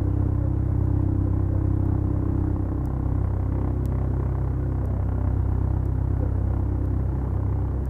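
Beechcraft Duchess's twin four-cylinder Lycoming piston engines running at a steady power setting, a constant low drone.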